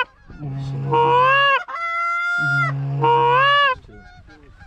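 Goose call blown by a hunter: three long, drawn-out honks, each breaking upward in pitch, calling to geese in flight. The calling stops a little before the end.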